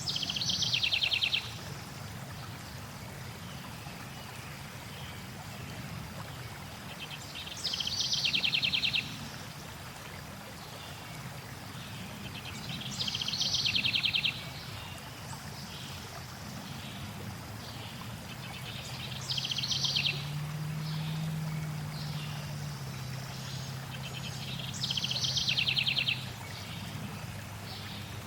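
A songbird repeating one short, rapid trilling phrase five times, roughly every six seconds, over the steady rush of flowing water.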